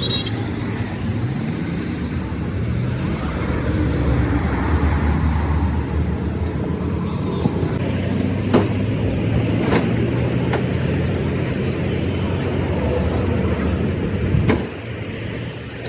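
A vehicle engine running steadily with a low hum, and a few sharp knocks in the second half. The engine sound drops away abruptly near the end.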